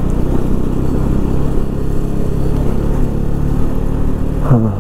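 Sports motorcycle's engine running steadily under load while climbing a rough dirt track.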